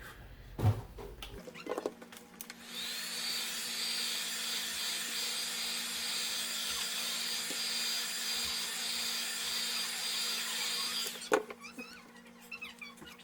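A small electric motor tool switched on, its whine rising as it spins up, running steadily for about eight seconds with a high whine over a noisy rush, then switched off with a sharp click.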